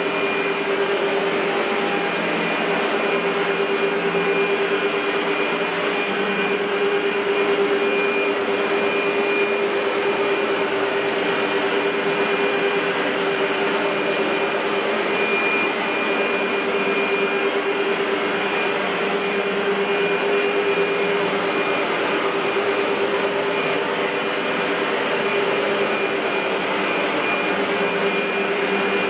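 Century 400 U-Vac, a SEBO-built commercial upright vacuum cleaner, running steadily: an even rush of air with a constant hum and a thin high whine.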